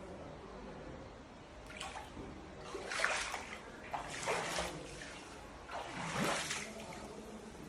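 Floodwater splashing and sloshing, in several separate rushes a second or two apart over a steady background wash.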